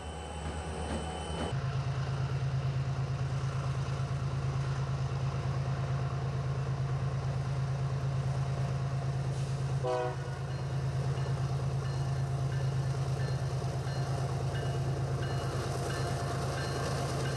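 Diesel freight locomotive running with a steady low engine drone, and one short horn blast about ten seconds in.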